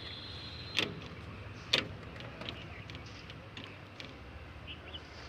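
Side-shift gear lever of a Farmtrac tractor being moved through its gates with the engine off: two sharp clicks about a second apart, then a few fainter ticks.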